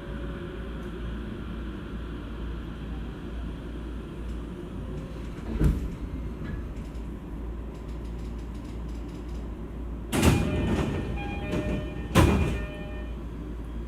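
Interior of an E231 series electric commuter train at a station stop: a steady low hum, a knock about six seconds in, then the car's sliding doors working with two loud bursts of noise near the end.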